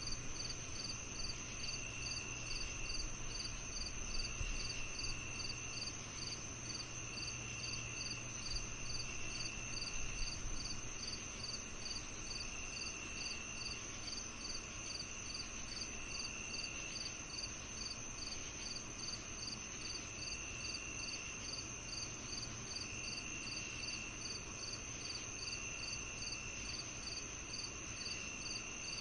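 Crickets chirping together on a summer evening. A steady high trill runs under regular chirps at about three a second, and a lower trill comes in spells of a second or so every few seconds, over a faint low hum.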